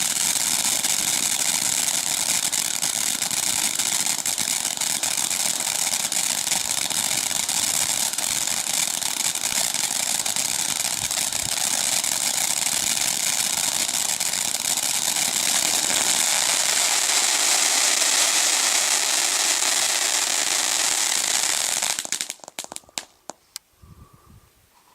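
A 'World's Strongest Fountain' ground fountain firework spraying, a steady loud hiss thick with fine crackle, dying out about 22 seconds in with a few last crackles.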